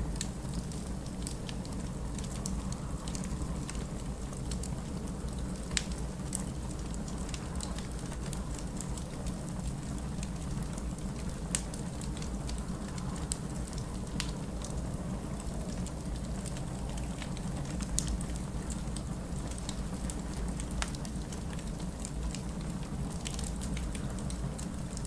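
Wood fire in a fireplace crackling, with sharp single pops every few seconds over a steady low noise.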